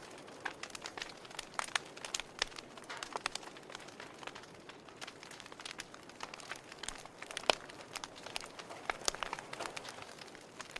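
Wood fire in a fireplace crackling, with irregular sharp pops over a soft hiss and one louder pop past the middle.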